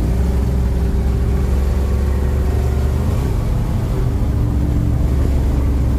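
Pickup truck engine running under way, heard from inside the cab as a steady low drone with road noise, its pitch shifting about three seconds in.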